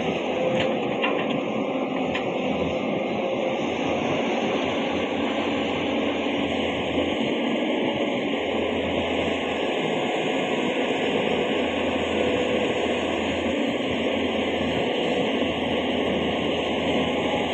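Heavy vehicle engines running steadily, a constant mechanical drone with no sharp events.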